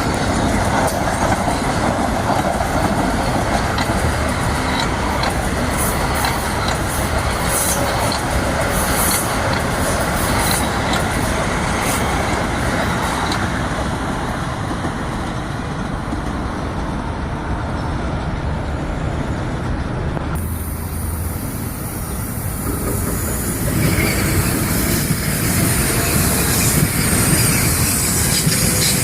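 Metro-North commuter train running past on the tracks: a steady rumble with wheel and rail noise. The sound changes abruptly about twenty seconds in.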